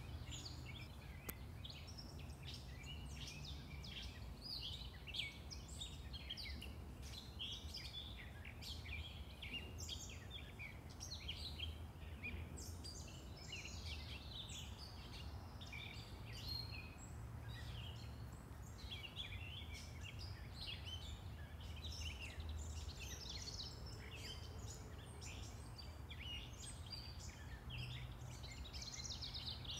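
Many small birds chirping and singing at once, a constant stream of short, high overlapping calls, over a steady low hum of distant road traffic.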